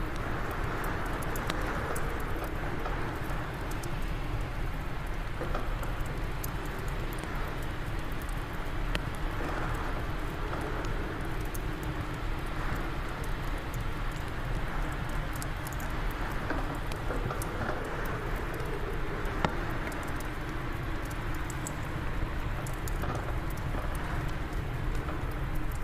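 Wood fire crackling in a fireplace, with frequent small sharp pops scattered over a steady low wind rumble.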